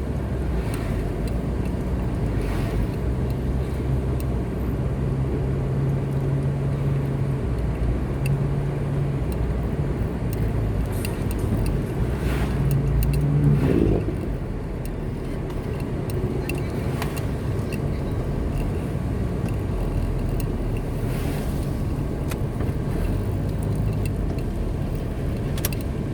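A car running along a road: a steady engine drone and tyre rumble. About 13 seconds in, the engine note rises and grows louder, then drops back suddenly.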